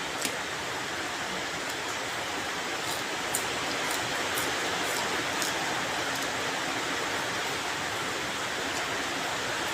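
Steady rain falling, an even dense hiss, with a few sharp ticks of drops in the first half.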